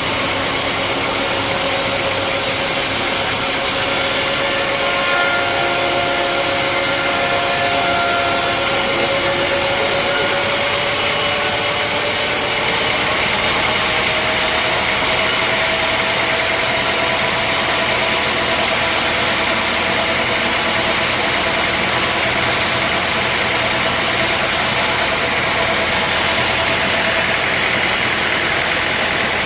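Sawmill machinery running steadily: a loud engine-driven hum with a whine that slowly rises in pitch partway through.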